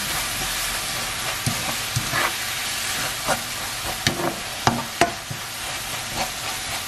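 Small dried anchovies and chopped peppers sizzling as they are stir-fried in a wok, tossed with a wooden spatula that scrapes and taps against the pan several times.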